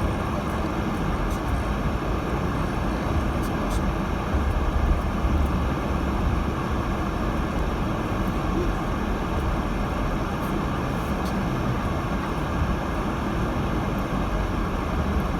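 Steady road and tyre noise inside the cabin of a 2018 Subaru Crosstrek driving on snowy roads, a constant low rumble with a few faint clicks.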